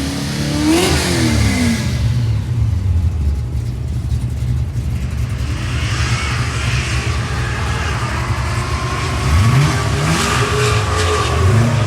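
Car engines revving hard as cars pass on the track, their pitch sweeping up and then down with each pass.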